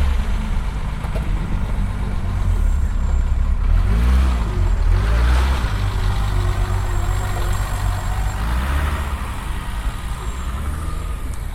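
Motor vehicle engine idling, a steady low rumble.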